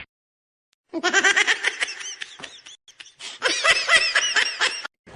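High-pitched laughter in quick, repeated bursts, starting about a second in, with a short break near the middle.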